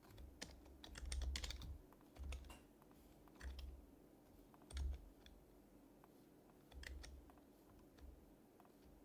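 Typing on an HHKB Professional HYBRID Type-S keyboard, with its silenced Topre capacitive switches. There is a quick flurry of keystrokes in the first couple of seconds, then short bursts of a few keys each with pauses between. The keystrokes are soft clicks with a muted thock.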